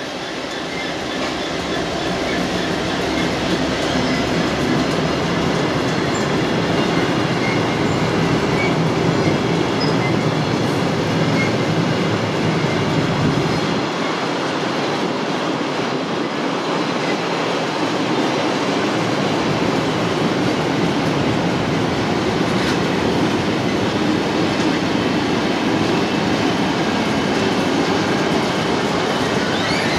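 A Class 66 diesel-electric freight locomotive, with a two-stroke EMD V12 engine, passes under power; its engine note stands out for the first dozen seconds or so. A long rake of loaded car-carrier wagons then rolls past, the wheels rumbling and clacking over the rails.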